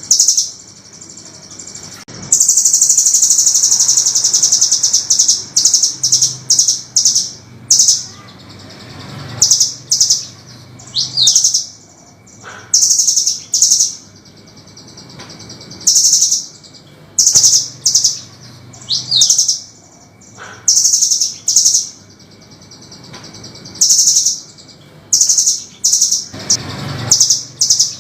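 Velvet-fronted nuthatch (burung rambatan) calling in sharp, harsh high-pitched notes. About two seconds in comes a long rapid trill of roughly three seconds. After that, short bursts of chirps and trills follow one another with brief pauses.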